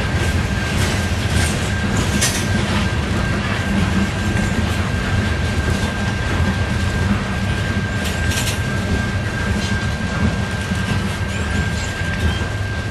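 CSX freight train of covered hopper cars rolling past: a steady rumble of steel wheels on rail with a thin, steady high-pitched tone over it, and sharp clacks about two seconds in and again about eight seconds in.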